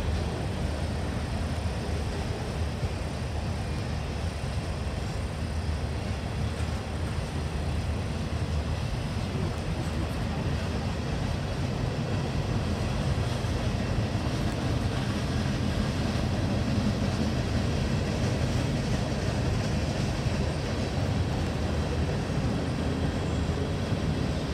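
Freight cars of a passing train rolling by on the rails: a steady low rumble of wheels and rolling stock.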